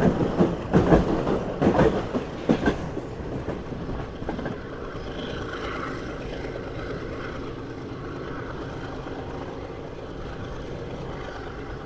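Passenger train running on the rails: several loud clacks of the wheels over rail joints in the first three seconds, then a steadier, quieter running rumble.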